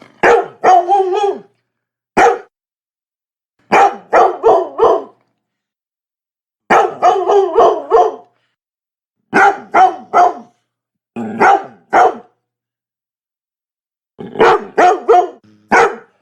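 Labrador barking in quick runs of three to five loud barks, with one single bark, and pauses of a second or two between the runs.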